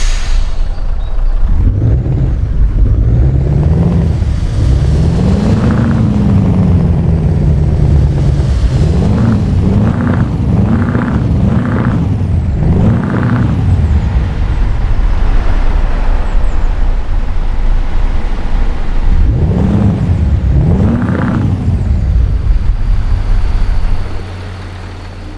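Scania R-series truck's V8 diesel engine being revved: two long rises and falls in pitch, then a quick run of about five short blips, then two more revs, before the sound drops sharply near the end.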